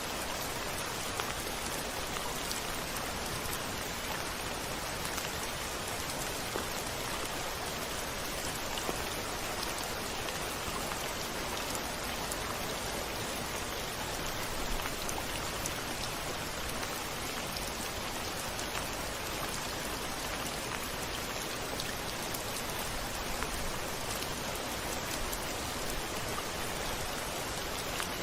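Steady rain falling, with single drops ticking here and there against a surface.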